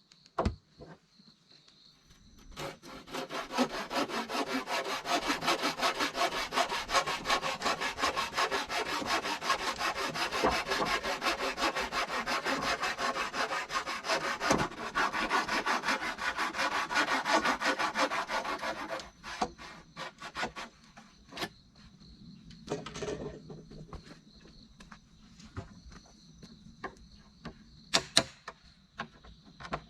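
Saw cutting through wood in rapid, steady back-and-forth strokes for about sixteen seconds, stopping abruptly, then a few scattered knocks. Insects buzz faintly in the quiet stretches.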